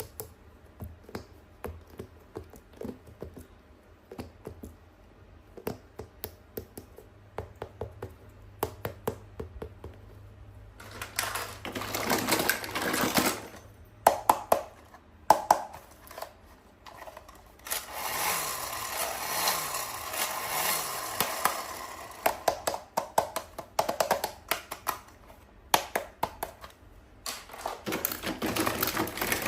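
Hands handling toys and their packaging: many small sharp plastic clicks and taps, with three longer stretches of rustling, about a third of the way in, in the middle and near the end.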